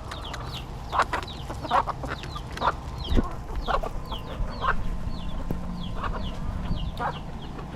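A flock of chickens clucking, with many short, high, falling peeps from chicks scattered among the clucks, over a steady low rumble.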